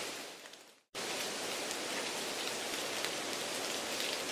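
Steady rain-like hiss with faint crackles from the test's added background noise track. It fades out to a brief silence just before a second in, then cuts back in abruptly and runs on steadily.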